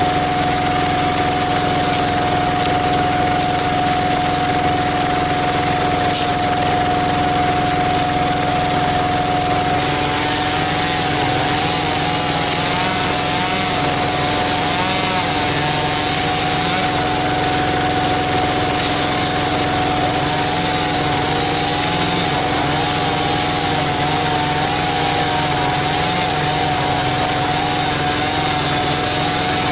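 Single-cylinder diesel engine of a walk-behind power tiller running steadily, driving a screw-cone log splitter. About ten seconds in, a wavering tone joins the steady engine note.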